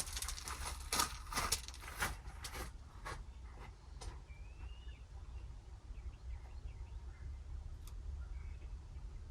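Light clicks and knocks of hand tools being picked up and handled, about two a second for the first three seconds, then only a steady low hum.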